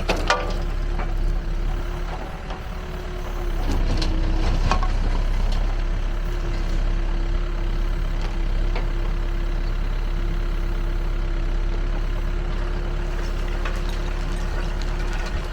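Backhoe loader's diesel engine running steadily, getting louder about four seconds in, with a few sharp knocks at the start.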